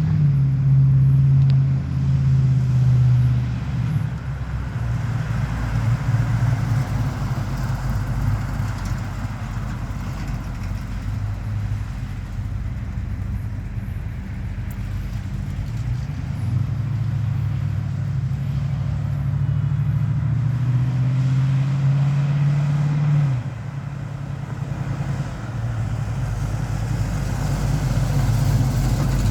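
1970 Chevrolet C10's 395 cubic-inch V8 running, its note rising and falling with the throttle. The pitch climbs slowly, then drops abruptly about two-thirds of the way through.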